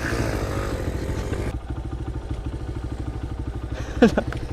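Small pit bike engine running at a steady low speed with an even, rapid putter. About four seconds in there is a brief, sharp, loud sound.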